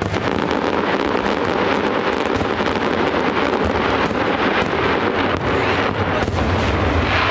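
Fireworks shells bursting overhead, filling the air with a dense, continuous crackle of many small pops.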